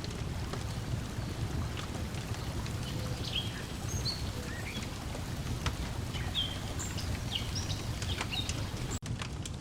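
Mixed nature ambience: a steady low wash of lake water lapping, a wood fire crackling with scattered small pops, and small birds chirping now and then. The sound cuts out for an instant near the end.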